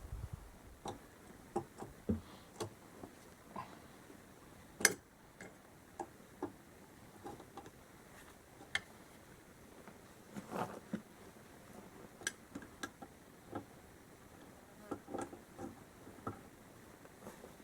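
Irregular clicks and knocks of hand tools working loose the nuts and bolts of a quad bike during teardown, with one sharp loud click about five seconds in.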